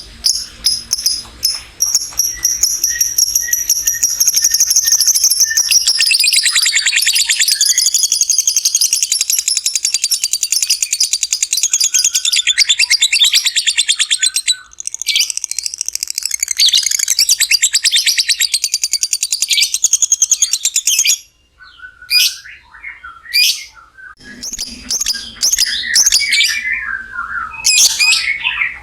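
Lovebird's 'ngekek panjang': a long, very fast chattering trill held for nearly twenty seconds, which breaks off about three quarters of the way through into short chirps and squawks.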